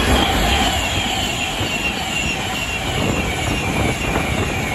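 Avanti West Coast Class 390 Pendolino electric train passing: a loud, steady rush of wheels on rail and air, with a high whine that falls slowly in pitch as the train goes by.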